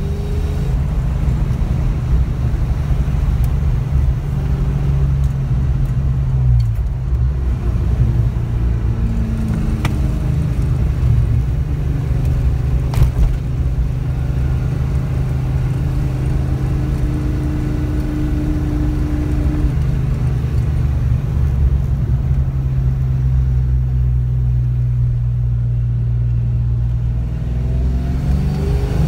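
Fox-body Ford Mustang's 5.0-litre V8 running under way, heard from inside the cabin. Its note drops about six seconds in, dips again near the end and starts to rise as it picks up. There is a single sharp click about thirteen seconds in.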